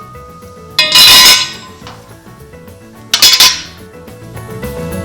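Two loud metal clangs, about a second in and again about three seconds in, each with a short ring. They come from steel truck-frame parts being worked loose during the teardown, heard over background music.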